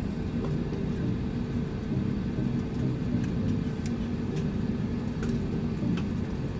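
Airbus A320-200 cabin noise while taxiing after landing: a steady low rumble of engines and airframe, with a few faint ticks.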